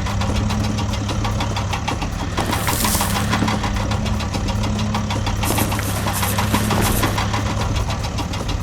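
An engine running steadily with a fast, even knocking beat, typical of a diesel tractor or construction vehicle, with a hiss that swells twice, around three and six seconds in.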